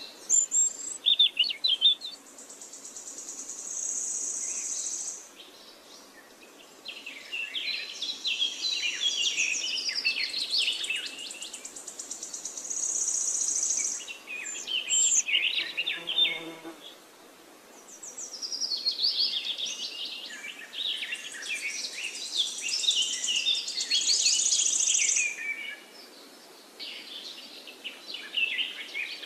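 Birds chirping and trilling in high bursts a few seconds long, with short quieter gaps between them.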